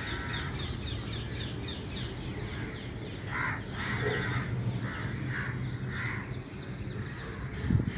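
Crows cawing, about five harsh caws in the middle stretch, over rapid, repeated chirping of small birds in the first half.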